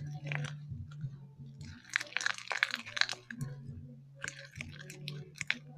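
Slime being squeezed and worked in the hands, giving wet crackling clicks in two short flurries with a pause between.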